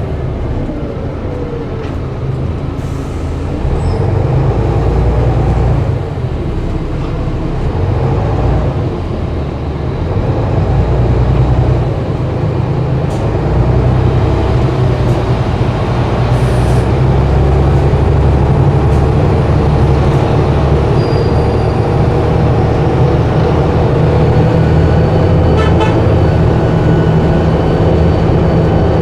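Diesel bus engine running under load, its note rising and easing back twice, about six and twelve seconds in, then running steady and loud.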